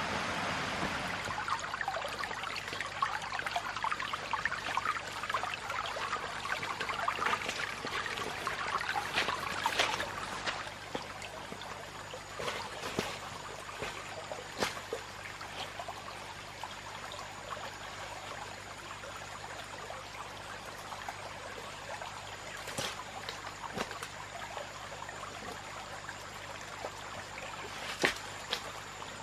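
Water trickling, busier for the first ten seconds or so, then quieter with a few sharp clicks and knocks.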